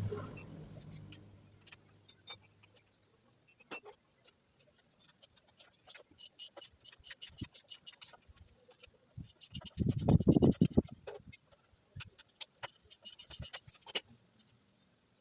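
Metal tools and parts clinking and knocking while a motorcycle is being taken apart, with two runs of rapid, even clicking and a louder dull scraping burst about ten seconds in.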